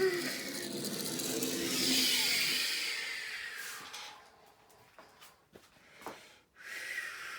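A person imitating a jet airliner's takeoff by mouth: a breathy whooshing hiss that swells to its loudest about two seconds in and then dies away. A few soft knocks follow near the end.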